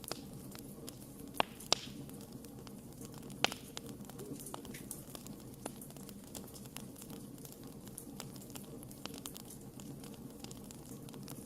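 Wood fire burning with a steady low rush and frequent sharp crackles and pops, three of them louder in the first few seconds.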